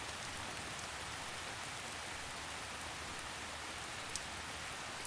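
Steady rain falling in a forest, a soft even hiss with a few separate drips, one about four seconds in.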